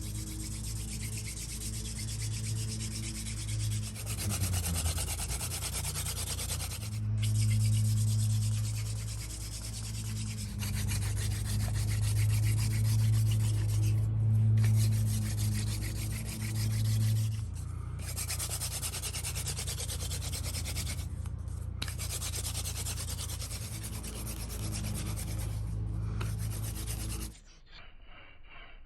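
Wooden hand-drill spindle spun back and forth between the palms on a wooden hearth board: a continuous rubbing rasp, broken by a few brief gaps, that stops near the end. A steady low hum runs underneath.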